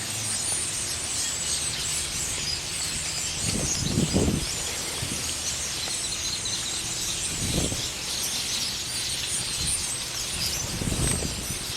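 Loud, unbroken chatter of a huge flock of birds, countless high calls overlapping into one steady din, with three short low whooshes a few seconds apart.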